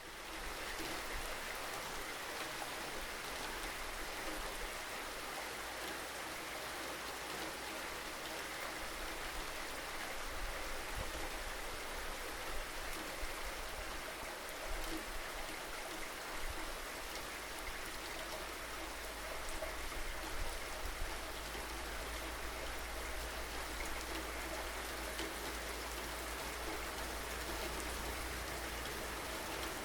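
Steady rain falling, an even hiss of drops with a few slightly louder spells of patter.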